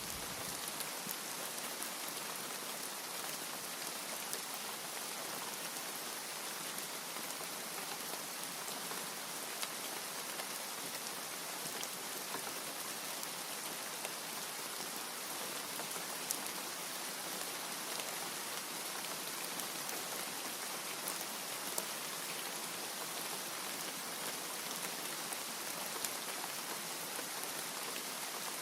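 Steady rain, an even hiss with a few sharper drop ticks scattered through it.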